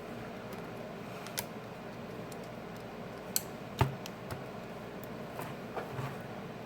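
Scattered small clicks and taps of a repair tool against small plastic parts inside a smartphone's frame during disassembly, over a faint steady hiss. The sharpest click comes just under four seconds in, with a few lighter ones after it.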